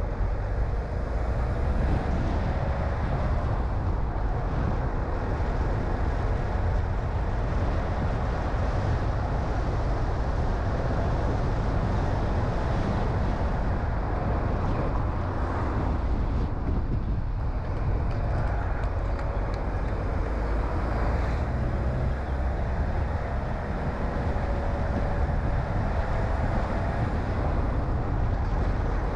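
A car being driven, heard as a steady low rumble of tyres and engine, with a faint engine note that drifts slightly in pitch.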